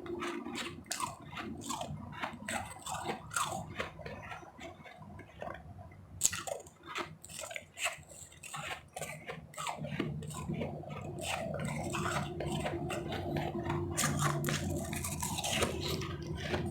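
Powdery, refrozen ice chips being bitten and chewed close to the microphone, a dense run of crisp crunches that thins out for a moment about five seconds in. A steady low hum sits under the crunching from about ten seconds in.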